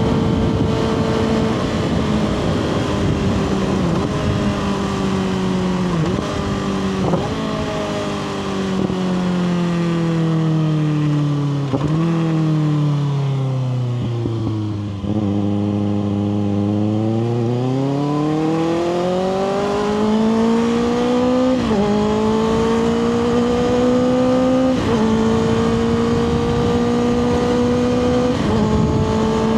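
2024 Kawasaki ZX6R's inline-four running through a Two Brothers slip-on exhaust, slowing down through several downshifts, each with a quick rev blip. Its revs bottom out about halfway, then it accelerates and climbs back up through the gears, the pitch dropping at each upshift, three of them in the second half.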